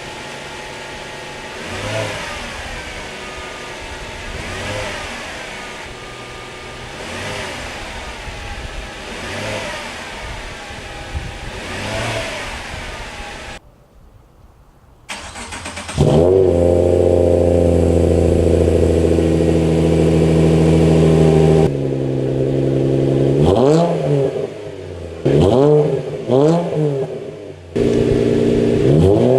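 Subaru Legacy 3.6R's flat-six boxer engine revved while standing still. First it runs on the stock mufflered exhaust: five fairly quiet rev blips, evenly spaced. After a brief break it runs on a muffler-deleted 4-inch axleback exhaust, much louder: held at high revs for about five seconds, then dropping back and given several short, sharp blips.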